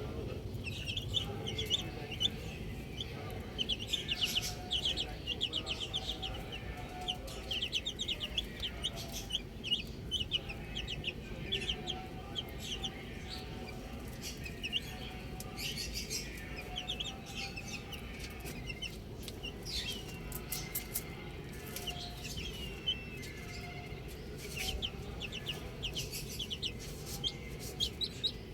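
Baby chicks peeping: many rapid, high-pitched cheeps in quick runs, overlapping throughout.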